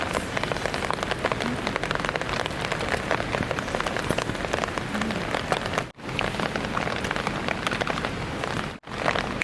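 Heavy rain falling, a dense hiss of countless small drop hits, with two brief silent breaks about six and nine seconds in.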